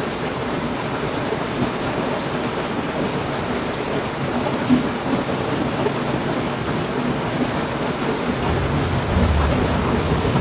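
Heavy rain falling steadily, with a low rumble of thunder building about eight seconds in.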